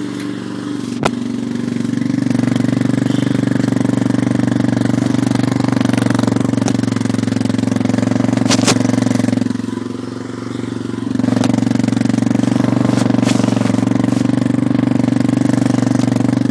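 Yamaha Raptor 250 ATV's single-cylinder four-stroke engine running steadily, its note dropping briefly around ten seconds in and then coming back up. A sharp click about a second in.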